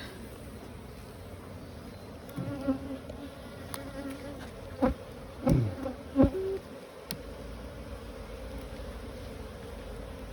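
Honeybees buzzing over an open hive: a steady hum of the colony, with single bees buzzing loudly and close by several times between about two and six seconds in, their pitch dropping as they pass. A couple of light clicks are heard.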